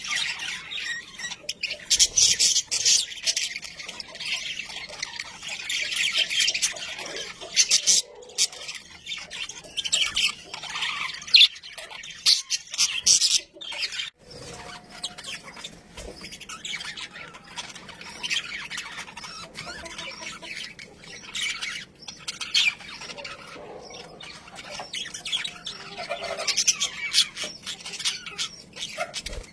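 Budgerigars chattering and chirping continuously, a busy warbling with squawks, louder in bouts.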